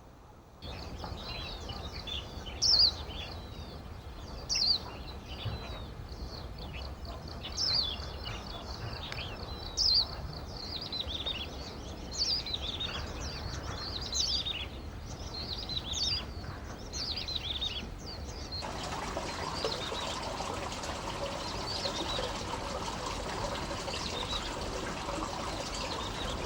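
Small birds singing: sharp, falling chirps repeated every couple of seconds over a low rumble. About three-quarters of the way through, the sound cuts abruptly to a steady rush of running water.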